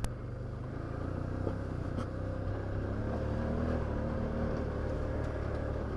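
Can-Am Outlander 850 XT ATV's V-twin engine running steadily while riding a trail, with a few faint clicks and knocks.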